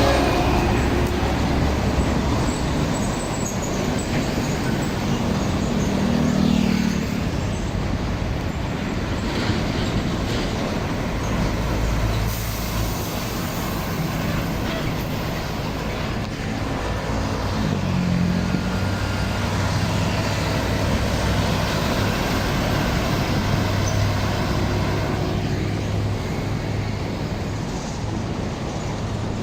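Roadside traffic: heavy trucks and other vehicles passing, with a steady wash of engine and tyre noise and a low engine hum that swells and fades as vehicles go by.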